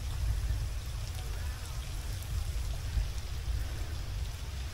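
Steady rain falling on wet pavement and floodwater, with a low rumble underneath.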